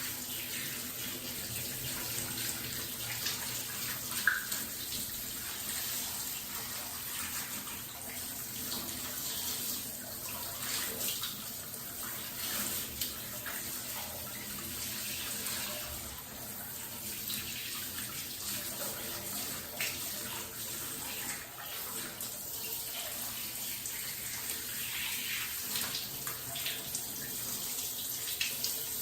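Tap water running steadily and splashing during a cat's bath, an even hiss throughout, with a brief short squeak about four seconds in.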